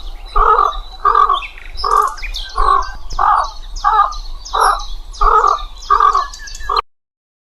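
Bird calling, given as a stork's sound: a steady run of harsh, caw-like calls, about one and a half a second, with higher chirps from small birds over them. The calls stop a little before the end.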